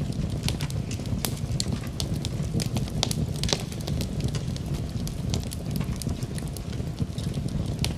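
Wood fire crackling in a fireplace: many irregular sharp pops and snaps over a steady low wind noise.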